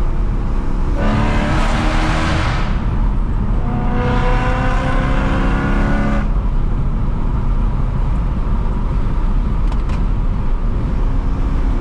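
A car engine pulling hard in two bursts of acceleration about two seconds long, the pitch climbing through each, with a short break between them. A steady low rumble runs underneath and carries on after the second pull.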